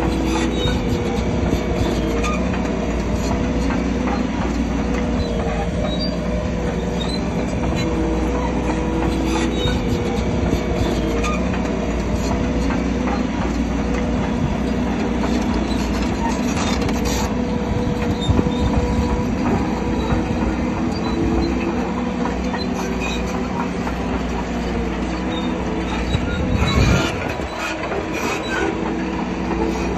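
Bulldozer diesel engine running under load while its steel crawler tracks clank and squeal, with a louder clatter about 27 seconds in.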